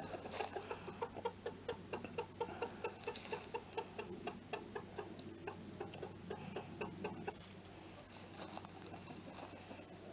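Chickens foraging, with short clucking notes repeated two or three times a second, thinning out in the last few seconds, over a steady low hum.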